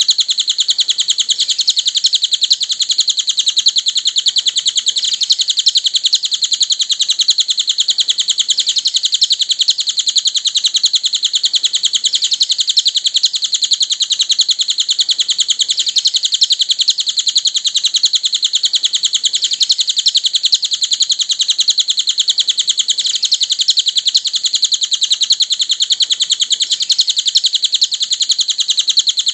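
Cililin bird singing a continuous, rapid high-pitched twittering song without pause, recorded for training other songbirds.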